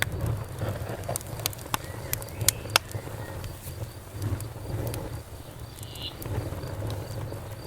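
Campfire crackling, with the burning wood giving off sharp pops and snaps, the loudest two about two and a half seconds in. Crickets chirp faintly and steadily underneath.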